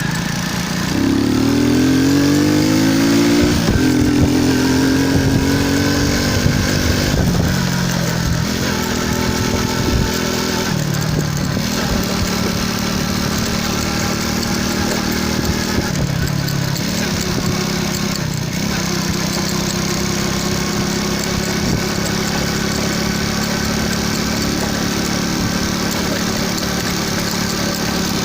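Motorcycle engine accelerating hard through the gears. The pitch climbs and then drops at each upshift, several times over the first seventeen seconds or so, before the engine settles into a steady cruise.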